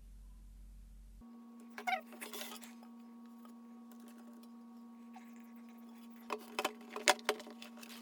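Small hard clicks and clinks of parts and tools being handled while an induction cooktop is put back together, a cluster about two seconds in and more from about six seconds on. Under them a steady hum starts about a second in.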